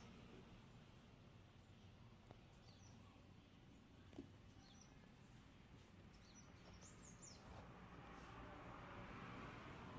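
Near silence, with a few faint, short high chirps of birds scattered through it and a single light click about four seconds in.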